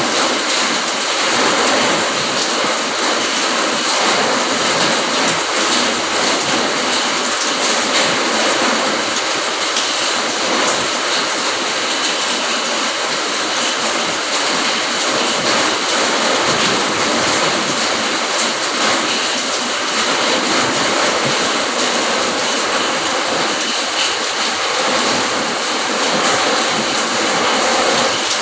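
Rain falling steadily, a dense even hiss with no break or change.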